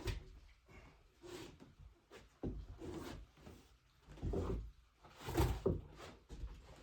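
A string of irregular knocks and thumps on wood, the loudest about five and a half seconds in.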